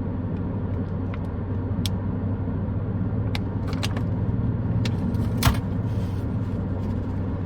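Steady low hum of a car idling, heard from inside the cabin, with scattered small clicks and one sharper click about five and a half seconds in.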